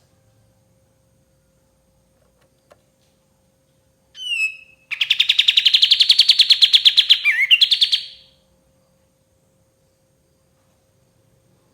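White-shouldered triller (kapas tembak) singing: a short falling call about four seconds in, then a loud, rapid trill lasting about three seconds.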